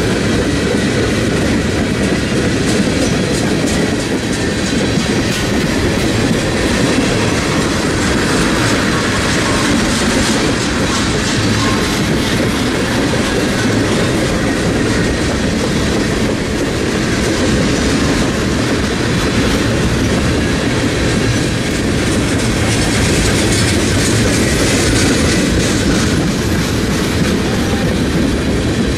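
Norfolk Southern freight train of tank cars, hoppers and boxcars rolling past: a loud, steady rumble of steel wheels on the rails, with the clickety-clack of wheels running over rail joints.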